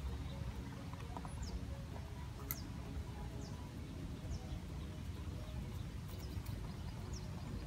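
Birds calling with short, high, downward-slurred chirps every second or so over a steady low rumble, with one sharp click about two and a half seconds in.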